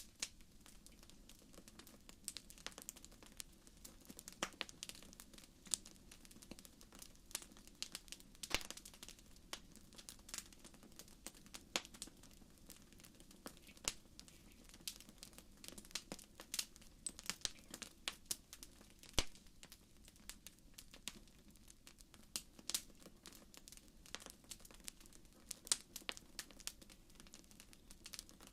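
Wood fire burning in a fireplace: irregular sharp crackles and pops over a faint low hiss.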